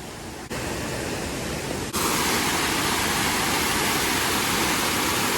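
Steady rush of a brook's water over small falls, a dense noise with no tone in it, that jumps abruptly louder about half a second in and again about two seconds in.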